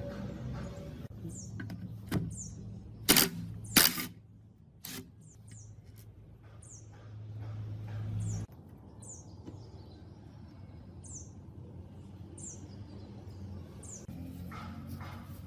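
A small bird chirping again and again with short, high, falling notes, over a low steady rumble that cuts off suddenly about eight seconds in. Two loud knocks come about three and four seconds in.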